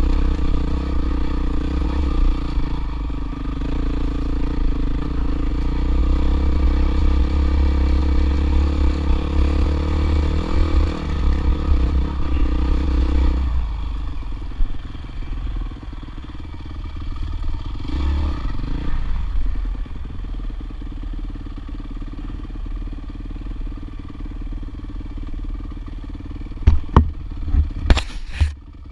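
Off-road motorcycle engine running at a steady throttle, then about halfway through the note drops and turns lower and uneven, with a short rise and fall in pitch a few seconds later. Several sharp knocks come near the end.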